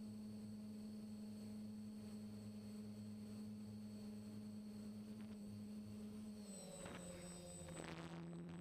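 Faint, steady electric hum of a drone's motors and propellers, with a thin high whine above it. About two-thirds of the way in the pitch drops a little and the sound roughens as the drone changes speed.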